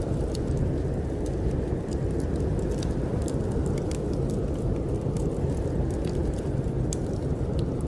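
Steady low rush of snowstorm wind, with scattered sharp crackles and pops from a burning wood fire in a fireplace.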